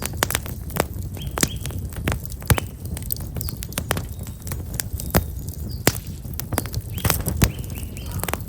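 Burning black locust firewood crackling with frequent sharp pops over a low rumble. Small birds chirp briefly about a second and a half in and again near the end.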